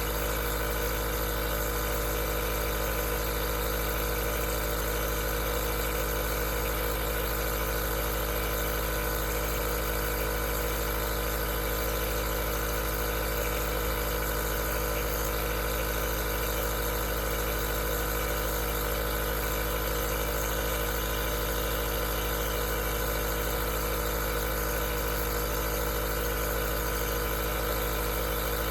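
Aerosol nebulizer's compressor running steadily: an even motor hum with several steady tones under a continuous airy hiss.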